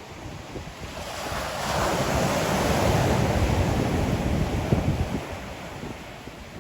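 Ocean surf: a wave builds about a second in, breaks and washes loudly for a few seconds, then fades. Wind rumbles on the microphone underneath.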